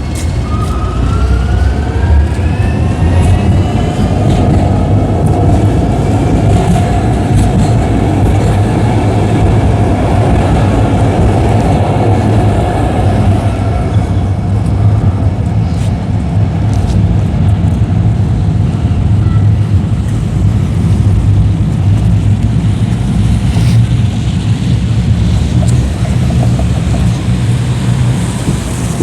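Calgary CTrain light-rail train accelerating: the electric traction motors give a rising whine over the first few seconds, under a loud, steady rumble of the train running on the rails.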